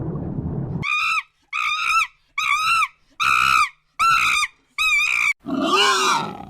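An animal calling: six short, high-pitched calls in a row, a little under one a second, each rising and falling in pitch, then a longer, rougher and lower call near the end. Before the first call, a low rumbling noise cuts off abruptly.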